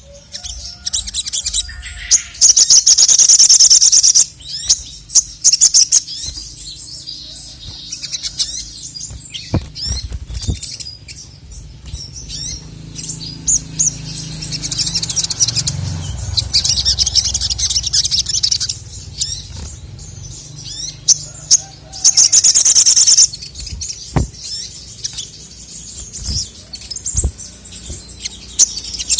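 Male sogon (sogok ontong), a small nectar-feeding songbird, singing loudly: scattered high chirps broken by rapid trilling bursts of song, the loudest about two seconds in and again a little past twenty seconds.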